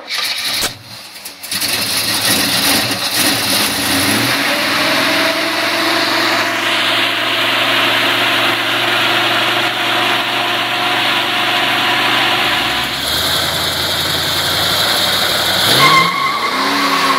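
Big-block 454 Chevrolet V8 starting and running at a fast idle, with the revs climbing about four seconds in. Near the end the throttle is blipped once, the revs rising and falling.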